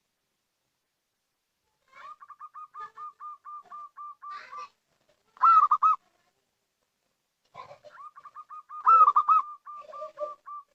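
Zebra dove (perkutut) cooing. After about two seconds of silence comes a run of quick, evenly spaced coo notes, then a short louder phrase, then another quick run with louder notes in the middle.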